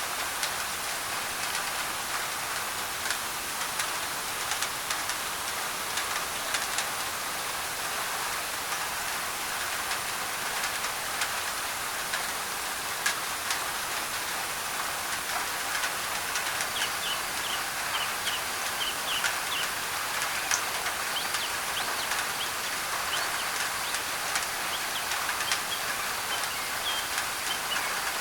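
Steady rain pattering on a thin tin roof, with individual drops ticking on the metal. From about halfway through, birds chirp in short repeated notes over the rain.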